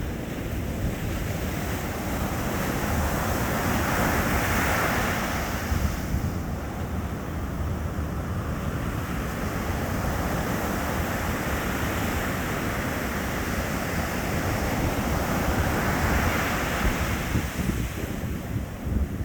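Sea surf on a beach: waves break and wash in with two surges of hiss, about four seconds in and again near sixteen seconds, over a steady low rumble of wind buffeting the microphone.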